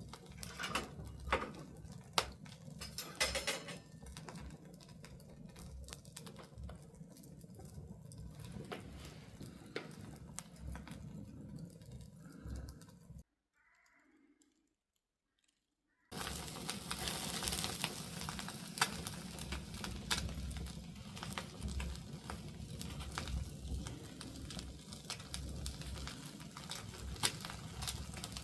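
Wood fire crackling and popping in an open fireplace, with many irregular sharp snaps. It breaks off abruptly for about three seconds partway through, then carries on.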